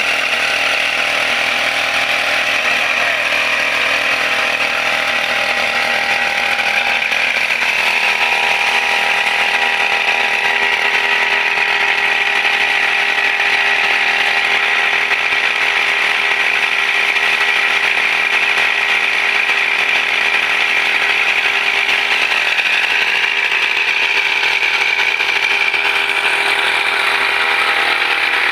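Brush cutter (grass-cutting machine) engine running steadily at high speed.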